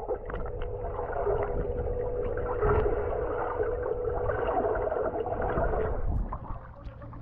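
Boat engine running with a steady whine over a low rumble and water noise; the whine drops away about six seconds in.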